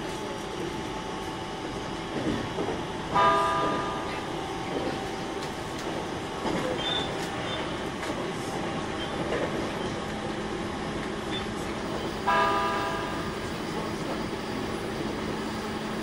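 Running sound of a JR East E721-0 series electric multiple unit heard from inside the car: a steady rumble of wheels on rail, with two short ringing tones about nine seconds apart, the first about three seconds in.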